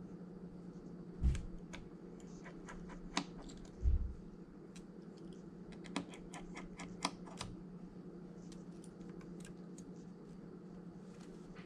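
Light, irregular clicks and taps from small tools and phone parts being handled on a work surface, with two dull thumps about a second and four seconds in, over a steady low hum.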